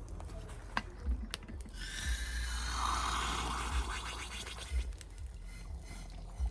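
A few light knocks, then hot water poured into a French press of coffee grounds, a splashing stream lasting about two and a half seconds, with its pitch rising as the press fills.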